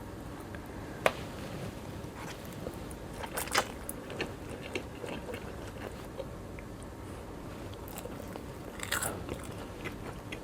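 Close-up eating sounds: bites and chewing, with sharp crunchy clicks about a second in, a cluster around three and a half seconds and another near nine seconds.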